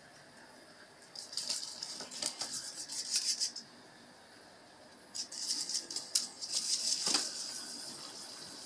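Robot vacuum manoeuvring on a cardboard sheet as it tries to dock on its charging base: two spells of rattling clicks and scraping, about a second in and about five seconds in, each some two seconds long.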